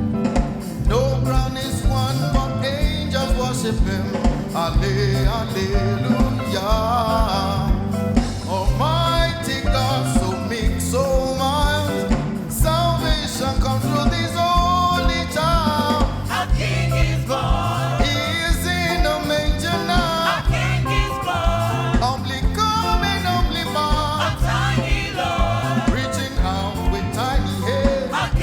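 Church worship band playing praise music with singing, over a steady beat and bass.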